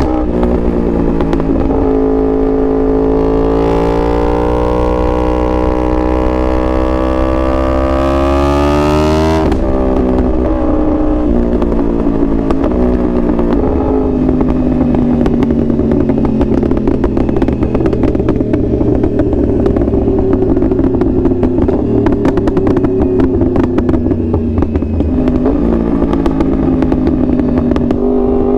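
2021 Yamaha R1's crossplane inline-four engine under way: the revs climb steadily for about nine seconds, drop suddenly, then hold at a lower, fairly steady pitch with a rougher, crackly edge, and begin to climb again at the very end.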